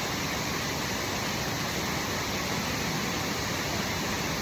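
Waterfall rushing steadily: an unbroken hiss of falling water, even in level throughout.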